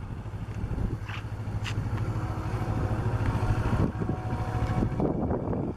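Kawasaki Ninja 650R parallel-twin engine running at low speed as the bike rides slow figure-eight turns, with a steady low rumble of wind on the microphone.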